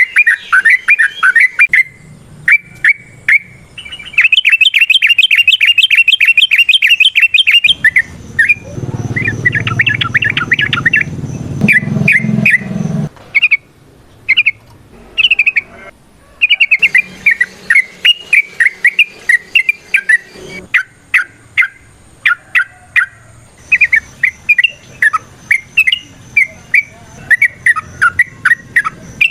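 Yellow-vented bulbul singing in chattering phrases of quick, sharp notes. About four seconds in it breaks into a fast, unbroken run of notes lasting some four seconds, the rapid 'ropel' delivery. Under the song a low rumble runs from about eight to thirteen seconds in.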